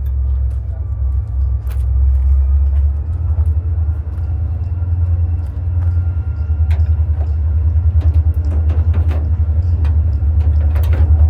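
A steady, loud low rumble that pulses slightly and swells toward the end, with scattered small clicks and taps.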